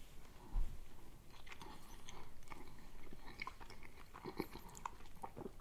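A person chewing a mouthful of croissant: faint, with small crunches and mouth clicks scattered throughout.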